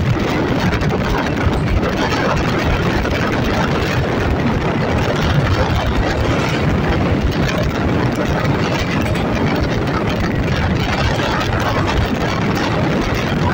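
Steady running noise of a MEMU electric train on the move: a loud, even rumble without a break.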